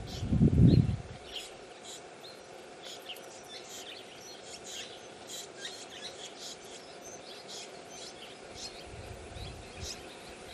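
Small birds chirping: many short, high chirps in quick, uneven succession, densest in the middle. A brief low rumble about half a second in is louder than the chirps, with a weaker one near the end.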